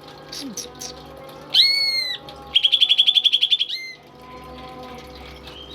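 Cucak ijo (green leafbird) singing. About a second and a half in it gives a loud arched whistle, then a fast trill of about a dozen notes a second, ending in a short whistle; it falls quieter after about four seconds.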